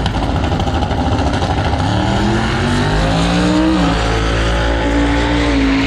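Race vehicle engine accelerating hard down the drag strip. Its pitch climbs for a couple of seconds, drops as it shifts gear, then holds steady.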